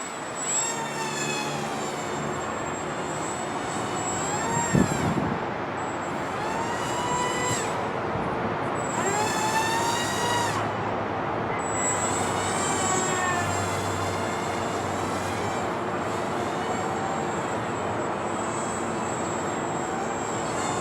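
High-pitched whine of the small flying wing's twin Emax 1106 8000kv brushless motors spinning 3-inch props, rising and falling in pitch over and over as the throttle changes and the plane passes by, over a steady hiss. A brief thump about five seconds in.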